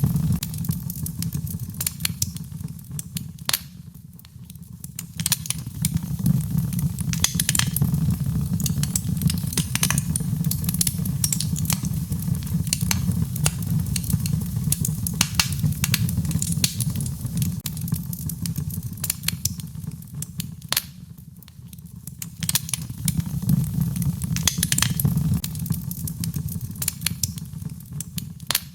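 Wood fire in a fireplace crackling: frequent sharp pops and snaps over a steady low rumble, with two brief lulls, a few seconds in and about two-thirds of the way through.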